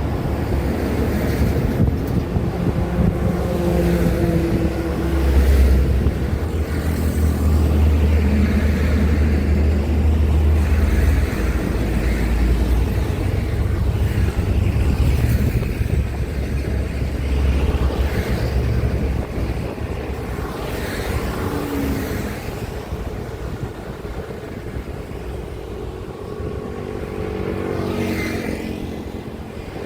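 Heavy traffic passing on a highway: diesel trucks rumbling by one after another. The rumble is loudest in the first half and eases off in the last third.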